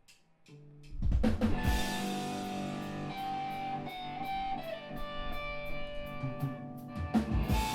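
Live rock band music: after a near-silent gap, a faint held guitar note, then drums and guitars come in together with heavy hits about a second in and keep playing, with sustained guitar notes over a steady cymbal beat and another heavy hit near the end.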